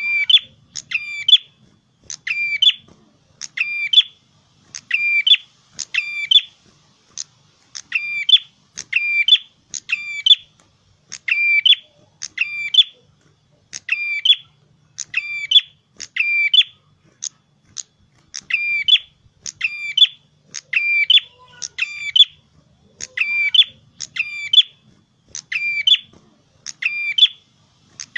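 Prenjak kepala merah, a prinia, calling energetically. It repeats the same short, sharp, high note over and over, often in quick pairs, about every half second to a second without a break.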